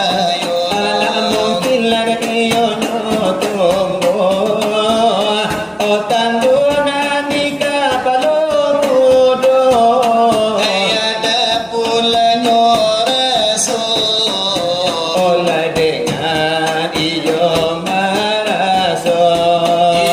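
Selawat dulang: voices singing a long, winding devotional melody over fingers rapping a fast, continuous rhythm on a brass tray (dulang).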